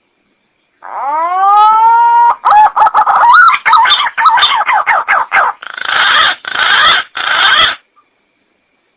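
Green pigeon (punai) calling: a long rising whistled note, then a run of quick wavering warbled notes, ending in three harsher, hoarse notes.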